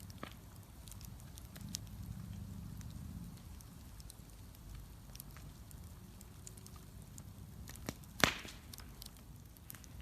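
Wood bonfire crackling, with scattered small snaps and one loud pop near the end.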